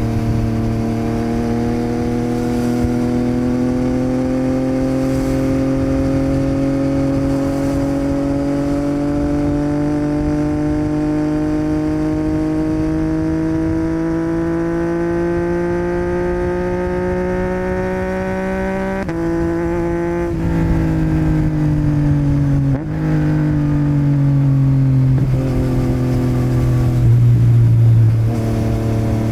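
Yamaha MT-09's 890 cc inline-three engine through a Yoshimura R77 exhaust, pulling in one gear with its pitch climbing slowly for about twenty seconds. It then changes up several times, each change a sudden step down in pitch.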